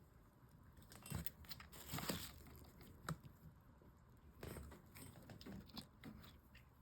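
Faint handling noises: a few light clicks and knocks with brief rustling, as pieces of knapping stone are picked up and unwrapped from their packaging.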